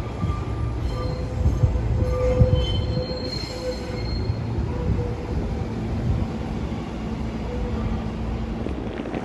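Railway noise at a station platform: a steady low rumble with faint high squealing tones that come and go, strongest about two to four seconds in.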